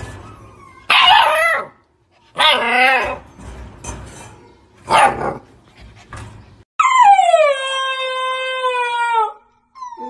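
Husky-type puppies howling: three short wavering howls in the first half, then a long howl about seven seconds in that drops in pitch and holds, and another howl starting near the end.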